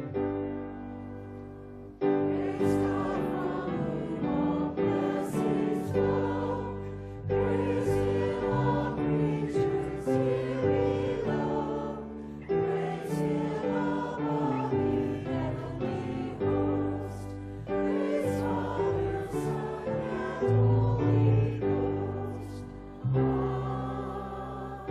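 Choir singing a worship song with instrumental accompaniment, sustained chords changing every second or two.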